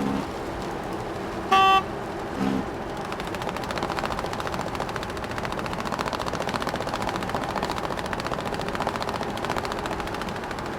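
A short horn beep about one and a half seconds in, followed by a brief low tone. From about two and a half seconds in comes a fast, steady mechanical rattle.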